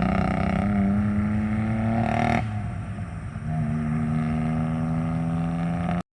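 Car engine running under throttle with a steady note, dropping away briefly about two and a half seconds in before picking up again; the sound cuts off suddenly near the end.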